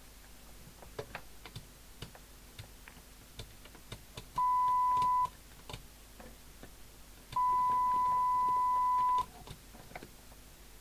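Steady 1 kHz test tone from the signal generator coming through the CB radio's speaker in two bursts, one of about a second and one of about two seconds, as the maximum-set squelch opens on the incoming signal. Small clicks sound between the bursts.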